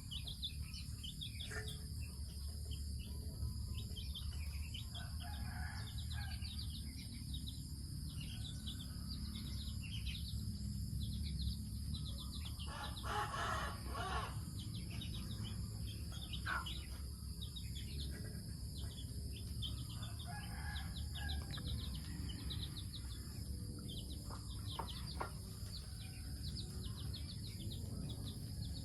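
Chickens in a yard with a rooster crowing once, about halfway through, over steady chirping of small birds and a constant low rumble.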